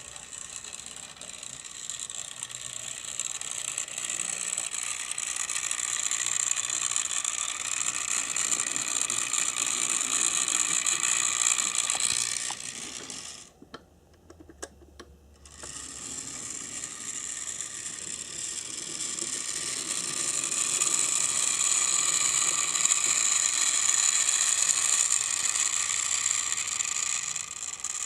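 Motor and gearbox of a brass HO-scale 0-6-0 steam switcher model whirring and grinding as it runs along the track. The sound builds up steadily, stops almost completely for about two seconds around the middle with a few small clicks, then starts again and builds back up before easing off near the end.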